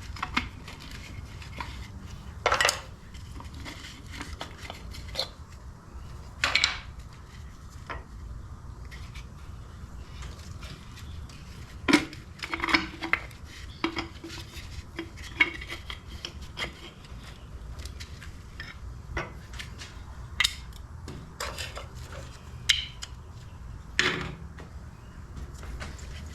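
Metal tools and engine parts clinking and clanking at irregular intervals over a low steady hum, as a crankshaft runout gauge is set up on a Harley-Davidson Evo engine case.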